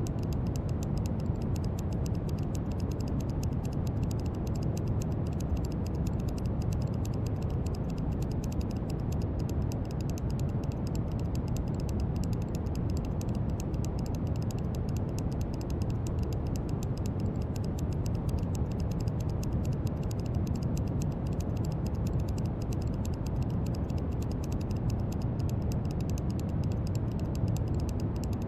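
Steady brown noise: an even, deep hiss with most of its weight in the low end, unchanging throughout, with a faint fine crackle in the highs.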